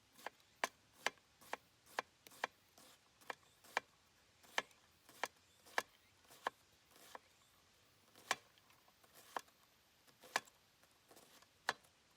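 A series of sharp, irregular taps, about two a second at first and sparser in the second half.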